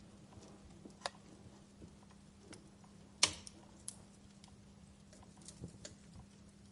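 Wood fire in a fireplace crackling: sparse, irregular snaps and pops from the burning logs, with one sharp, louder pop about three seconds in.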